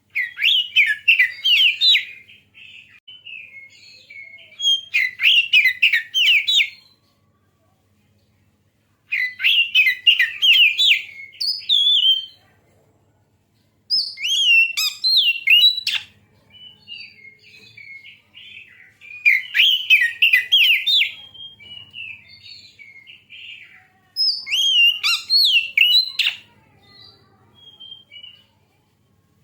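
An Oriental magpie-robin (kacer) is singing. About six loud phrases of rapid, whistled notes, each roughly two seconds long, come a few seconds apart, with softer twittering in between.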